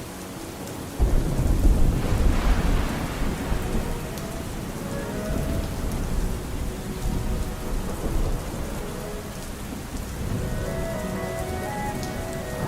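Steady rain with a sudden loud peal of thunder about a second in, a deep rumble that eases off over the next few seconds.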